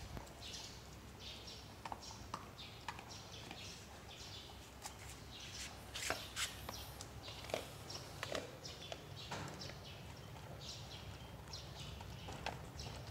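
Dog chewing and crunching its food: irregular crunches and clicks, a few louder ones about halfway through, over a steady low hum.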